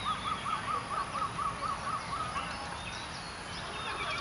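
Birds calling: one bird gives a quick run of short, evenly repeated notes, about four or five a second, that stops about two and a half seconds in, while other birds chirp higher and more sparsely around it.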